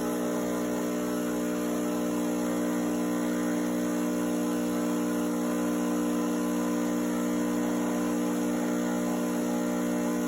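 Miele CM 5310 automatic coffee machine's pump running with a steady hum during its milk pipework rinse cycle.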